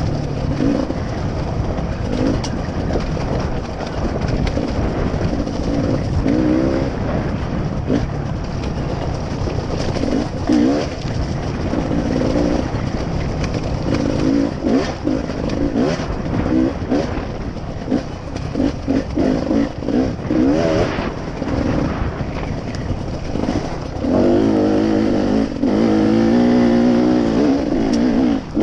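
Vehicle engine running under way, its pitch rising and falling again and again as it revs up and eases off, over steady wind and road noise with occasional knocks.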